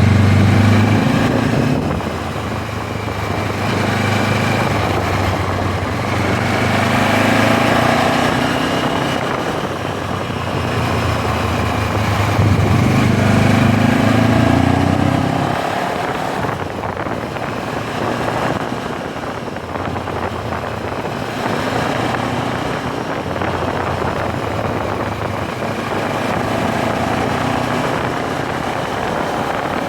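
MZ 1000 motorcycle's parallel-twin engine under way: its note climbs in pitch three times over the first half of the ride, as if pulling up through the revs and easing off, with a rushing noise of wind and road throughout. In the second half the engine is quieter and steadier under the wind noise.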